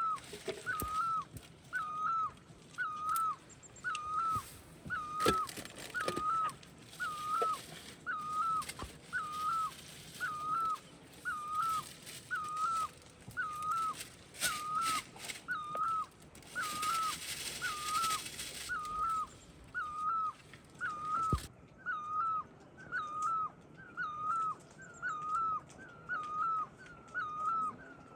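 An animal's short, high whining call, the same rising-and-falling note repeated steadily about once a second.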